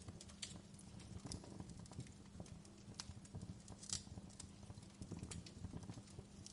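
Wood fire crackling quietly: irregular sharp snaps and pops over a low rumble of burning, with the loudest snap about four seconds in.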